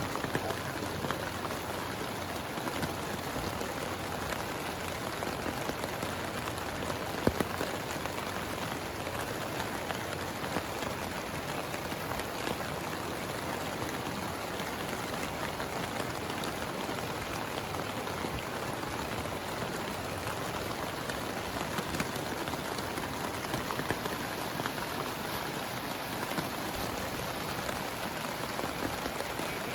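Heavy rain falling steadily, with many individual drops ticking sharply and one louder tick about seven seconds in.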